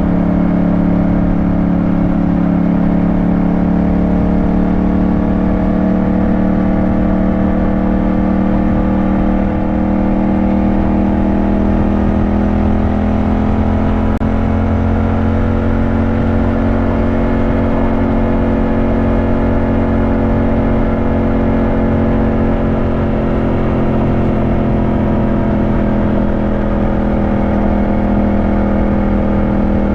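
Yamaha motorcycle engine running steadily under way, its pitch easing down and climbing back a little as the throttle changes.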